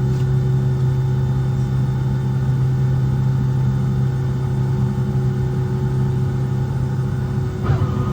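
Boeing 757-200 jet engines running steadily, heard inside the passenger cabin as a loud low hum with a few steady whining tones. A brief knock sounds near the end.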